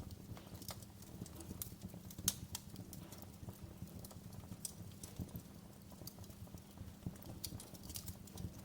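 Wood fire in a fireplace crackling: irregular sharp pops and snaps over a low steady rumble, with one louder pop a little over two seconds in.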